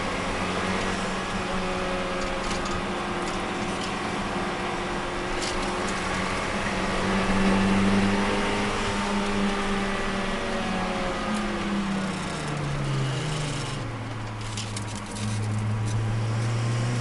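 Turbocharged Nissan Micra engine heard from inside the cabin while it laps a circuit. The note climbs to its loudest about halfway through, falls away over the next few seconds as the car slows, and picks up again after a brief dip near the end.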